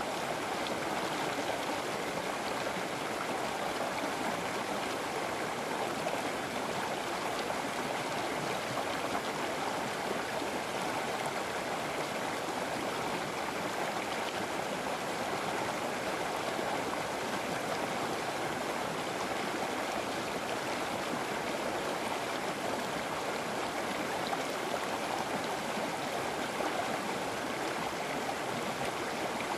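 River water flowing steadily, with a constant rushing sound that does not rise or fall.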